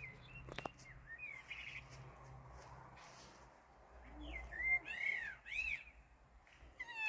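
Small birds chirping: scattered short, high chirps, then two louder arching calls about five seconds in.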